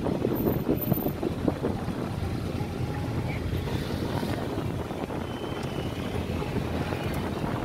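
Wind buffeting the microphone over the low, steady rumble of a Ford Mustang GT's 5.0-litre V8 idling as the car creeps past.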